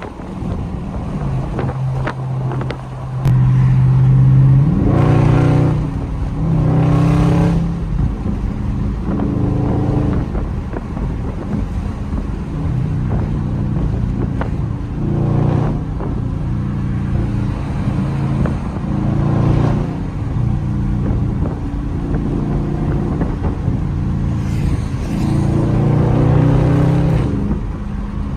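Dodge Scat Pack's 392 HEMI V8 with its mid mufflers deleted, under way: the exhaust note climbs in pitch through several hard accelerations, the clearest about five and seven seconds in and again near the end, with steadier cruising between them.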